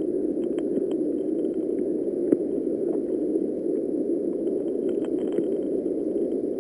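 Pressurised water escaping from a leaking underground pipe, heard through a geophone's ground microphone: a steady, muffled rushing hiss with a few faint ticks.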